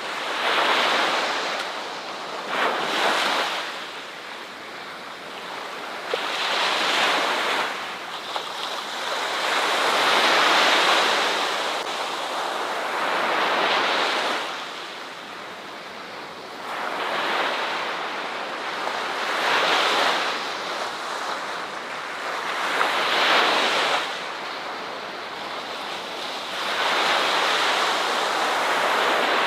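Ocean surf: waves breaking and washing up on the shore one after another, the sound swelling and falling back every three to four seconds.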